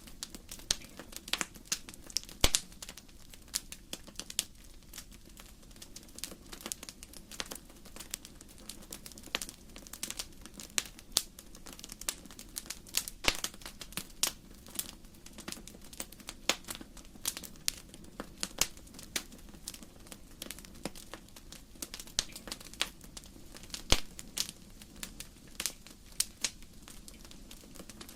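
Firewood burning in a fireplace, crackling with irregular sharp pops and snaps, several a second, over a soft steady low rumble. The loudest pops come about two seconds in and near the end.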